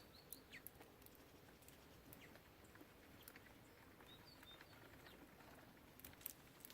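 Faint short chirps and calls of small songbirds at a bird feeder, mixed with scattered light clicks and taps that are sharpest near the end.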